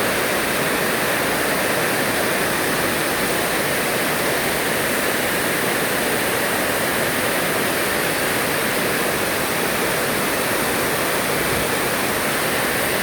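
Heavy rain coming down in a steady, unbroken downpour.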